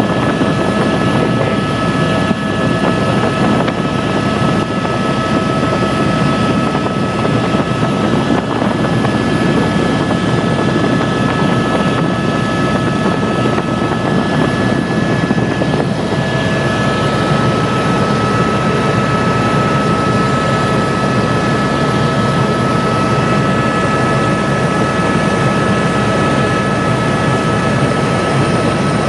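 Helicopter in flight: steady loud rotor and engine noise with a constant high whine running underneath.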